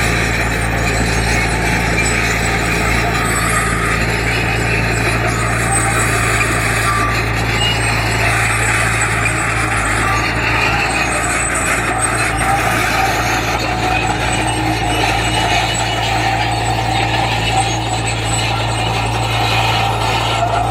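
Heavy diesel construction machinery running steadily under load, with a constant low engine drone and a broad mechanical din.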